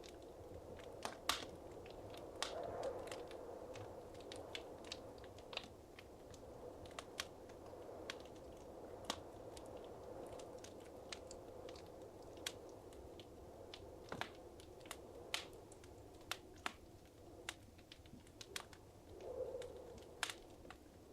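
Wood fire crackling in a fireplace: irregular sharp pops and snaps, a few louder ones, over a soft steady hiss of burning.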